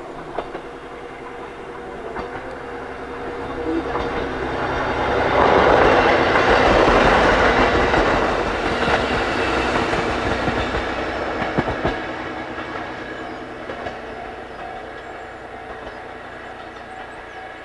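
A passenger train passing, its sound building to a peak about six to eight seconds in and then fading away, with wheels clacking over the rail joints as it goes by.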